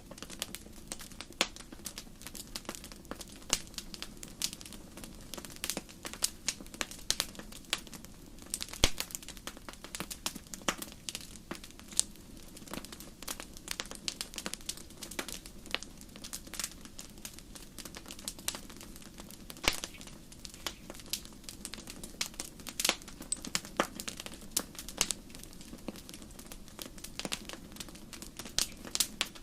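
Wood campfire crackling and popping, with irregular sharp snaps scattered throughout over a steady low rumble of burning.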